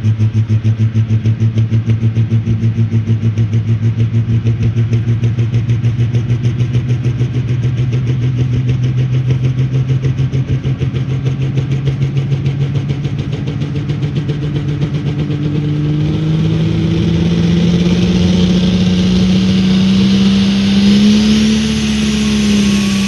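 Pulling truck's engine running loud with a rapid loping pulse, then its pitch climbs steadily as it revs up and pulls under load, holding high near the end.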